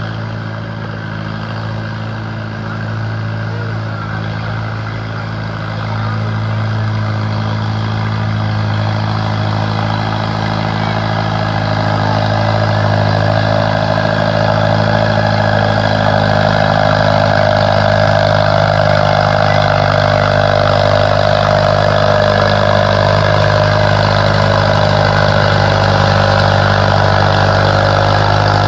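Farmall M tractor's four-cylinder engine running hard at a steady speed under load while pulling the sled. It gets louder about six seconds in and stays loud.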